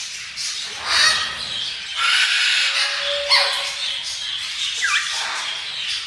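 Birds squawking: several harsh, raspy calls a second or so apart over a steady background of bird chatter.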